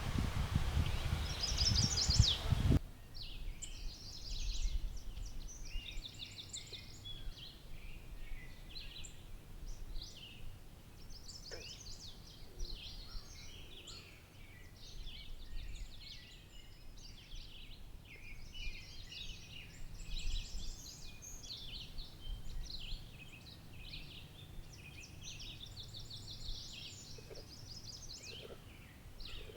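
Several songbirds singing and calling over one another in quick, overlapping chirps and trills, with a loud burst of noise during the first three seconds.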